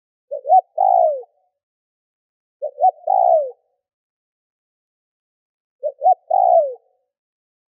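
Spotted dove cooing: three calls about two to three seconds apart, each two short rising notes followed by a longer note that slides down in pitch.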